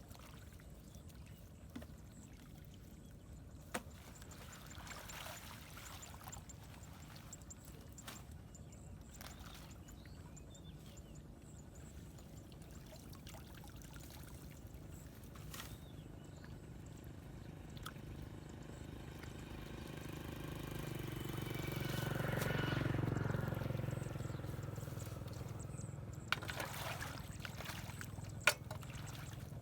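Floodwater pouring and trickling as it drains through a cleared blockage, with a few sharp knocks. About two-thirds of the way through, a louder swell with a falling pitch rises and fades.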